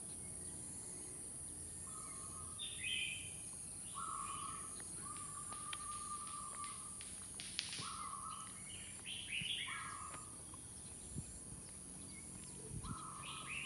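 Birds calling over and over outdoors: short flat mid-pitched notes alternating with higher, falling notes, over a steady high-pitched hiss.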